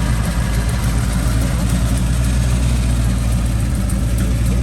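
An engine idling steadily, with a strong low hum.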